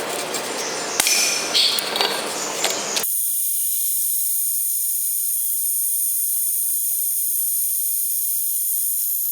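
Workshop clatter and scraping with sharp clicks for about three seconds, then a steady high-pitched whine.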